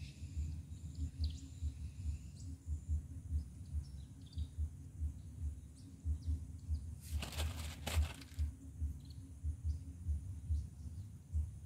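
Outdoor riverside ambience: faint, scattered bird chirps over an irregular low rumble, with a brief burst of rustling about seven seconds in.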